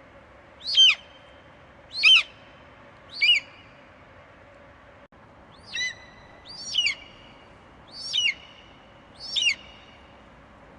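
An eagle calling: seven short, high screeches, each falling in pitch, about a second apart with a longer pause near the middle.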